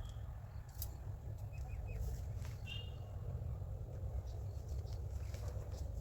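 Forest ambience: a steady low rumble with scattered small clicks and ticks, and a few short, faint bird chirps in the middle.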